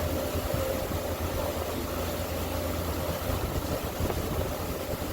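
A ferry boat's engine running steadily under way: a constant low rumble with a steady hum, over an even hiss.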